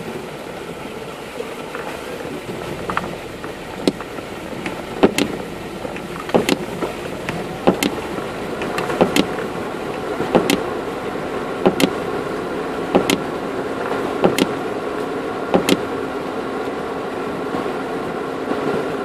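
A 4x4's engine running steadily as it drives along a muddy track, heard from inside the cabin. From about five seconds in, a sharp knock repeats about every 1.3 seconds.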